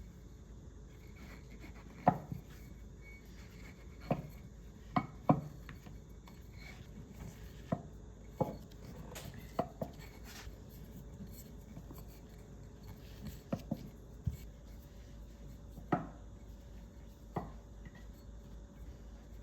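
Irregular light knocks and clicks of kitchen items and food containers being handled and set down on a hard surface, about a dozen over the stretch, with the sharpest near the start, in the middle and near the end.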